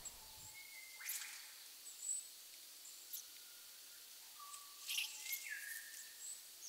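Faint outdoor ambience with scattered short bird chirps and thin whistled notes, one of them falling slightly near the end, and a few soft clicks.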